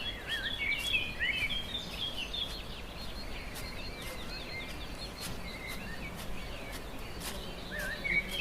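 Small birds chirping over a steady hiss of outdoor ambience: a dense run of short chirps that glide up and down in the first few seconds, thinning out, then picking up again near the end.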